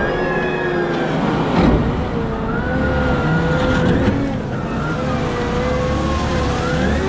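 Cat 972M XE wheel loader working, its engine and drivetrain giving a whine that wavers up and down in pitch. A brief thump comes about a second and a half in.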